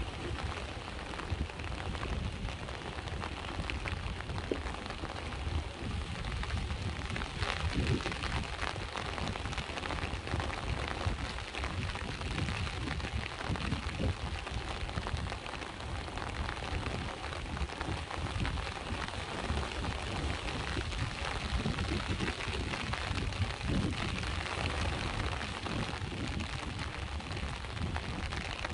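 Steady rain falling, with many small drop ticks, over a continuous low rumble of sea waves.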